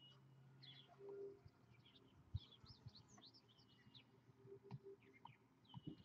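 Faint outdoor birdsong over near silence: small birds chirping, with a short whistled note near the start and again near the end. A soft thump comes about two and a half seconds in.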